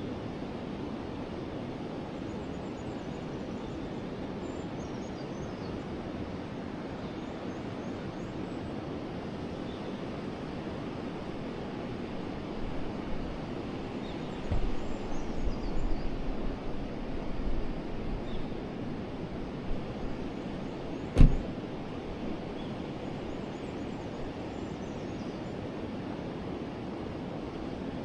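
Forest river flowing steadily, a constant rushing of water, with faint bird chirps now and then. Through the middle comes a stretch of uneven low rumbling, and a single sharp knock sounds about two-thirds of the way through.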